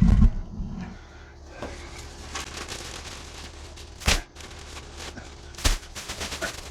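Scattered sharp knocks and clicks, with two louder knocks about four and five and a half seconds in.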